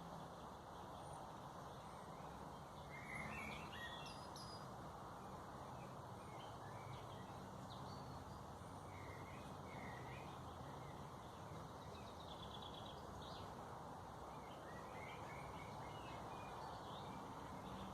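Faint birdsong: small birds give short chirping phrases now and then over a steady low background noise with a faint hum.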